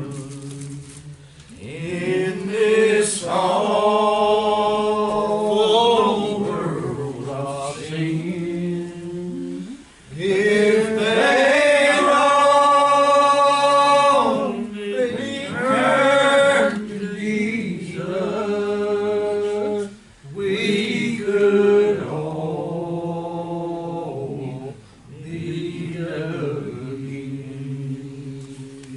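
Church singing: voices holding long, drawn-out notes in phrases a few seconds long, with brief breaks between phrases.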